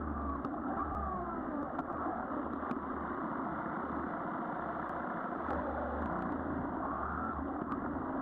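Yamaha Virago XV400 V-twin motorcycle engine running while riding, with road noise. It sounds muffled, and the engine pitch slowly rises and falls.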